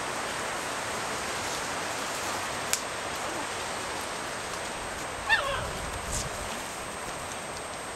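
A Norrbottenspets puppy gives one short, wavering high yelp about five seconds in, over a steady background hiss.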